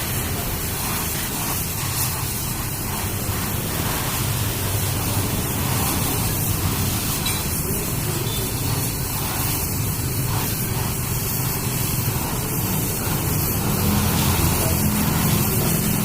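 Fuel-injected ketinting longtail-boat engine running steadily, a loud, hissy, even engine noise with a low hum underneath that picks up slightly in the last few seconds.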